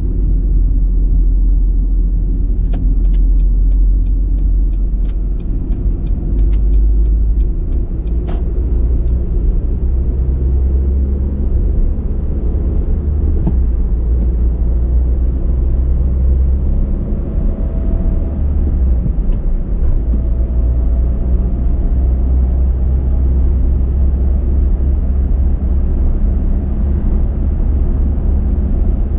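Car driving on the road: a steady low rumble of engine and tyre noise. A few seconds in comes a run of light, evenly spaced clicks that lasts about five seconds.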